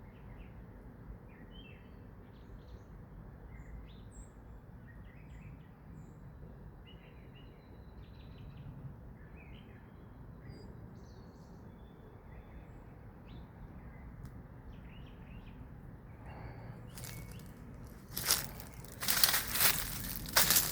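Small birds chirping now and then over a steady low outdoor rumble. Near the end, loud crackling and crunching of dry vegetation sets in, as of footsteps pushing through leaf litter.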